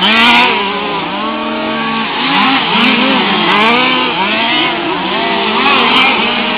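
Several 1/5-scale RC cars' small two-stroke petrol engines racing together, each revving up and dropping back on its own, so the pitches rise and fall over one another in a buzzing, chainsaw-like whine.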